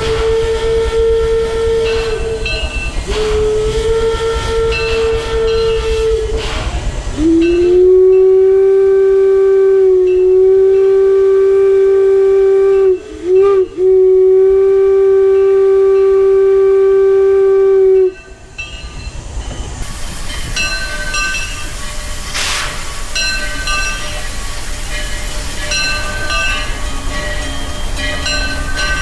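Steam locomotive whistles: two blasts on a higher-pitched whistle, then one long, loud blast of about ten seconds on a lower-pitched whistle, broken briefly in the middle. Afterwards the train keeps running with a faint rhythmic clatter.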